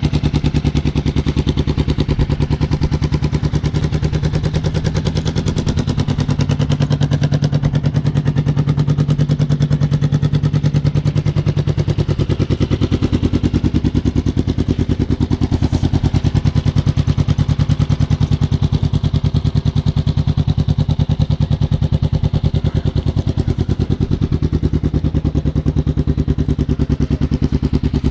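Kawasaki ER-5 500cc parallel-twin engine running steadily at idle through a short open exhaust, a loud, even string of exhaust pulses.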